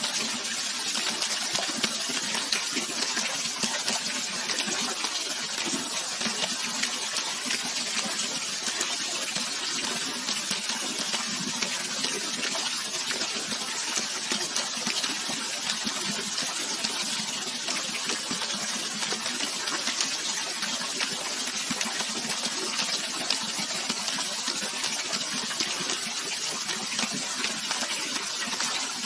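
Natural running water, flowing and splashing steadily with a hissy, even sound that doesn't change in level.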